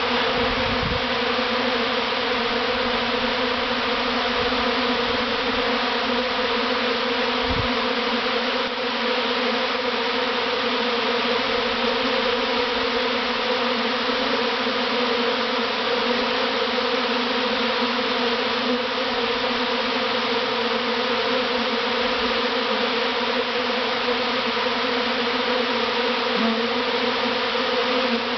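A large honeybee swarm buzzing at close range: a dense, steady hum of many wingbeats that holds without pause.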